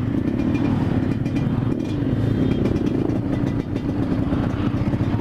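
Yamaha RX-King's two-stroke single-cylinder engine running hard under open throttle while riding at speed, a steady, loud motorcycle engine note with no clear rise or fall in pitch.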